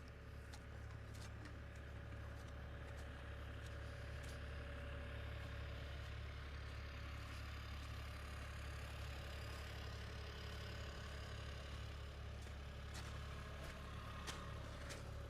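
A steady low machine hum, faint and unchanging, with a few faint scattered ticks.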